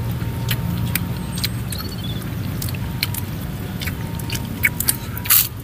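Close-up chewing and crunching of food: quick crackling clicks, with a louder crunch near the end, over a steady low hum.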